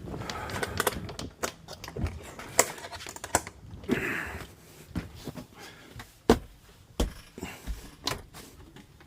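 Irregular sharp clicks and knocks, about a dozen of them, of switches and fittings being worked inside a caravan, with a brief rustle near the start and another about four seconds in.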